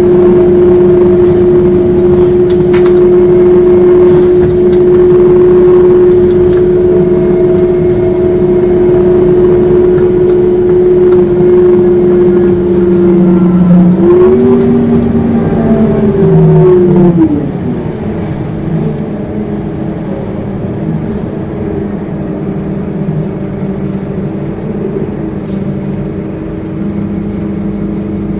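Scania K230UB city bus drivetrain heard from the cabin, giving a loud steady howling whine. About halfway through the pitch rises briefly, then falls away as the load comes off. The level then drops, leaving a quieter, lower engine running.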